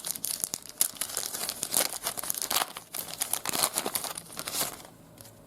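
A trading card pack wrapper being torn open and crinkled in the hands, with irregular crackling that dies away near the end.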